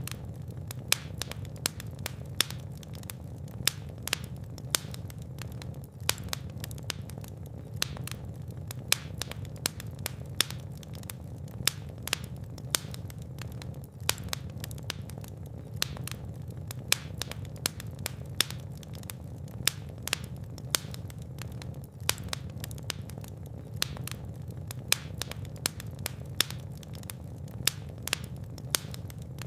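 Fire crackling and popping: many sharp, irregular snaps, several a second, over a steady low rumble of burning flames.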